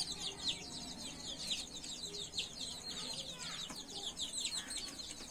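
A group of young fancy-breed chicks peeping continuously: many short, high calls, each falling in pitch, overlapping with no break.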